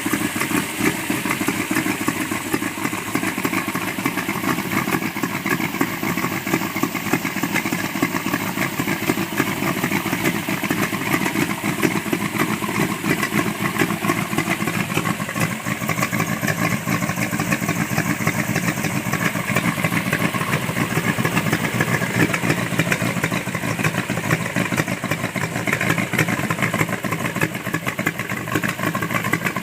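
Engine of a 1936 International Harvester C-1 hot rod truck idling steadily.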